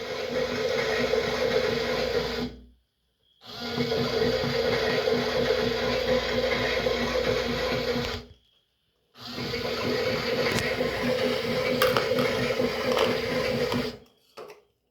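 Small electric motor of a toy washing machine running with a steady hum. It cuts out completely twice for about a second and starts again, then stops near the end.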